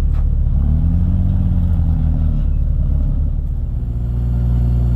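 Jeep Cherokee XJ's engine running at low revs while rock crawling, with a brief rise in revs about a second in that settles back, then a steady drone.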